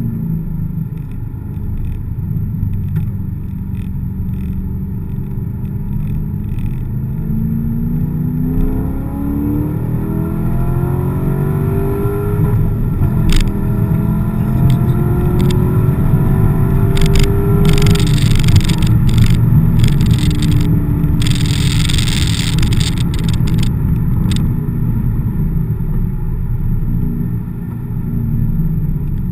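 Corvette V8 heard from inside the cabin at speed on a wet track; its engine note climbs steadily from about eight seconds in, then eases back. A rushing hiss joins for a few seconds about two thirds of the way through.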